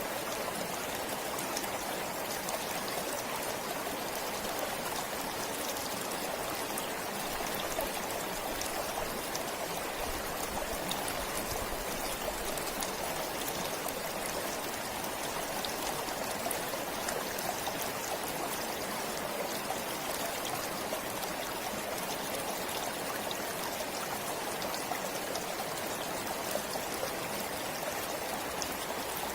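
Forest stream flowing steadily, an even rush of water with fine trickling and splashing.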